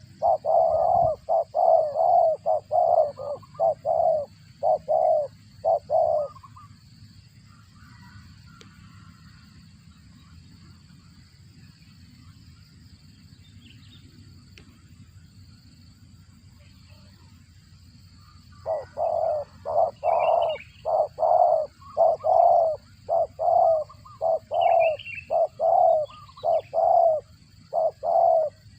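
Spotted dove giving rapid runs of short, low cooing notes, about two or three a second, for the first six seconds and again from about two-thirds through. This is the cricket-like call it makes while feeding its chicks. A few higher chirps are heard near the end.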